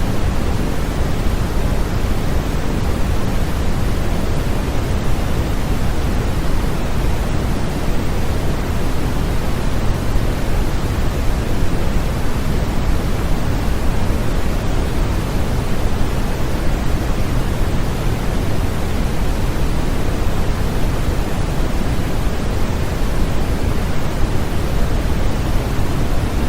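Steady, continuous pink-type noise, an even hiss-and-rumble weighted toward the low end, played as a baby sleep aid.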